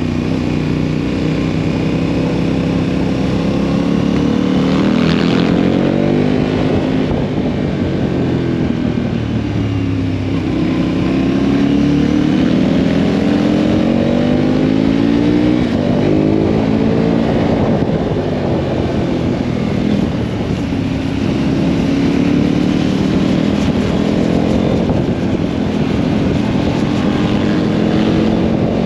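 Motorcycle engine running on the road, its pitch rising and falling several times as it speeds up and eases off, over a steady rush of wind and road noise.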